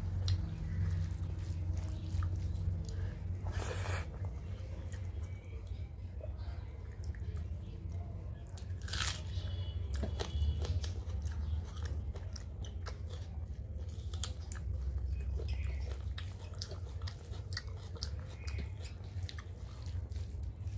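Close-miked chewing and mouth sounds of a person eating a rice-and-dal meal by hand. There are many small clicks and two louder crunches, about four and nine seconds in, over a steady low hum.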